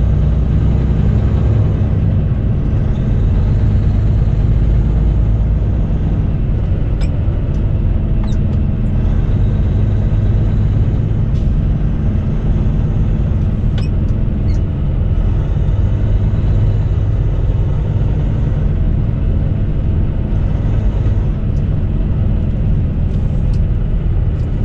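Semi truck's diesel engine and road noise drone steadily from inside the cab while cruising on the highway, with a few faint clicks.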